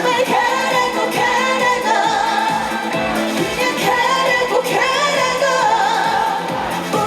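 A woman singing a Korean pop song live through a PA, her melody held and wavering with vibrato, over amplified accompaniment with a steady beat.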